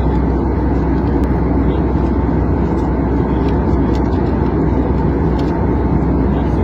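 Steady roar of an Airbus airliner's cabin noise, engine and airflow noise heard from inside the cabin, heavy in the low end and unchanging.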